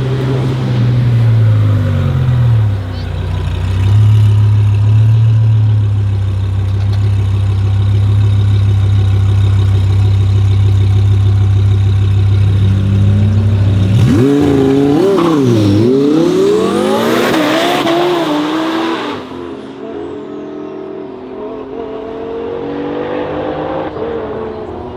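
Twin-turbo Lamborghini Huracan Performante's V10 engine running at a steady low note for over ten seconds, then launching: the pitch climbs in repeated rising sweeps as it shifts up through the gears. It fades as it pulls away, with a fainter engine note rising again near the end.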